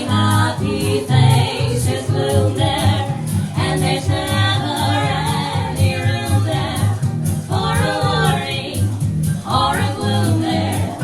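1940s-style swing music: a female close-harmony vocal trio singing over a recorded big-band backing track.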